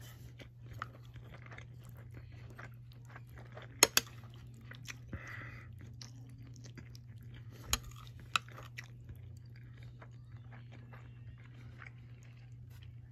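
Chewing and crunching a chicken-feet and cucumber salad, with many small crackly mouth sounds and a few sharper clicks about four seconds in and near eight seconds, over a steady low hum.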